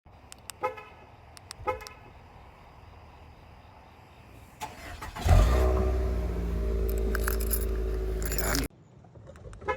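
Two short chirps about a second apart, like a car horn's lock chirp. A little after five seconds a Nissan Altima's engine, with its muffler deleted, starts up loud and runs at a steady idle. The engine sound stops abruptly near the end.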